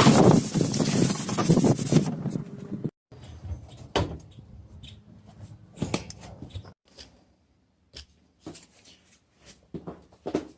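Hand sanding with fine 400-grit sandpaper, a dense rubbing that fades out over the first two seconds. It is followed by scattered light knocks and taps.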